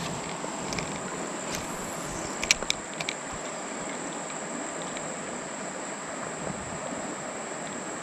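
Steady high-pitched drone of summer insects over a faint wash of creek water, with a few sharp clicks about two and a half to three seconds in.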